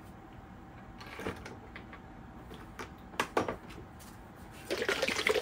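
A few light clicks and knocks of parts and tools being handled, then about a second of rustling and scraping near the end.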